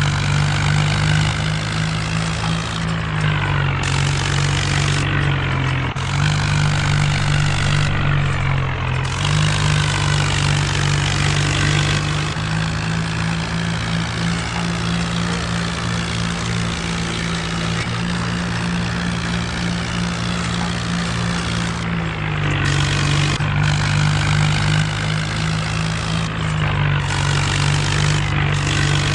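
Mahindra Arjun tractor's diesel engine running steadily while working a rotavator, with its pitch dipping and rising slightly a few times.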